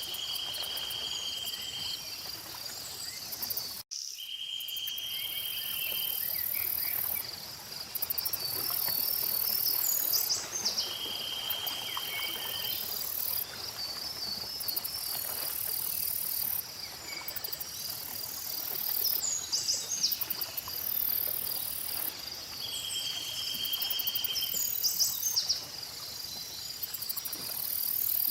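Outdoor nature ambience of insects chirring: a steady high trill underneath and louder, very high-pitched chirring that starts and stops in blocks of a few seconds. Short bird chirps and about four separate buzzy trills of a second or two come and go, and the sound cuts out for an instant about four seconds in.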